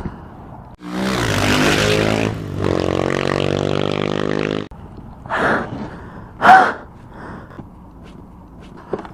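A motor vehicle engine revs, climbing in pitch, then holds steady for about two seconds and cuts off suddenly. Two short shouts follow.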